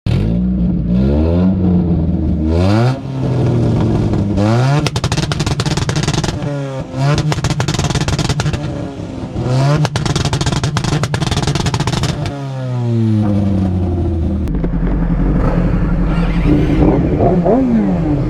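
A vehicle engine revved hard over and over, its pitch climbing and dropping several times, with rapid crackling while it is held at high revs through the middle. Near the end it falls back to lower, rough running with smaller blips.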